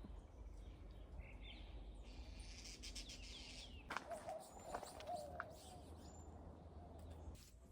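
Faint outdoor birdsong: scattered short chirps, with a wavering lower call around the middle, over a steady low hum.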